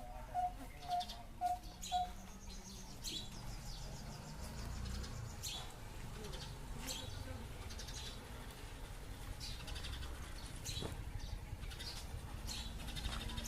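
Birds calling: one repeats a short clear note about twice a second for the first two seconds, then several high, quick chirps and a brief trill follow on and off, over a low background rumble.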